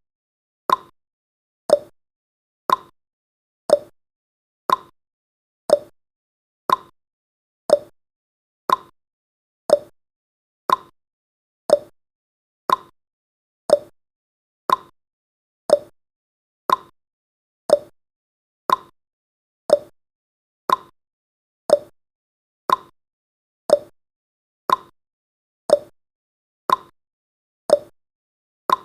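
Clock-ticking sound effect of a countdown timer: one short tick every second, steady.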